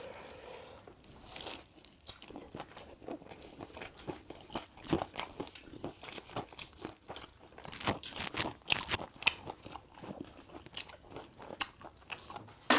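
A person eating: chewing and biting into food, with many irregular crunches. A single sharp click, the loudest sound, comes at the very end.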